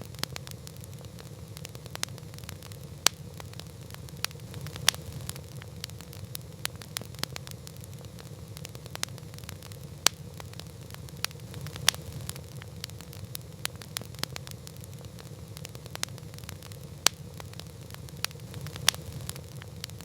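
Campfire burning, with frequent irregular sharp crackles and about six louder pops scattered through, over a steady low rumble.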